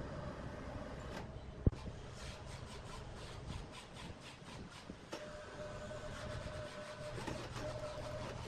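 Large wood lathe running, with a turning tool scraping a spinning log in a regular rhythm of about four strokes a second over a steady motor hum. There is a single sharp thump about two seconds in.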